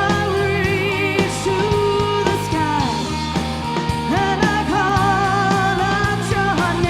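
Live rock band playing: a lead singer holds long, wavering notes over distorted electric guitars, bass and a drum kit.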